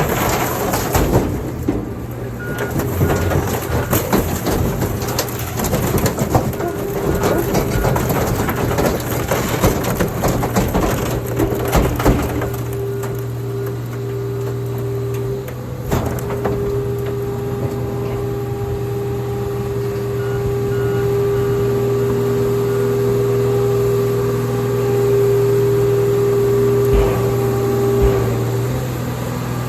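Hydraulic car crusher flattening car bodies: dense crunching and cracking of metal and glass for about the first twelve seconds, then the machine's steady hum with a held whine as the press runs on.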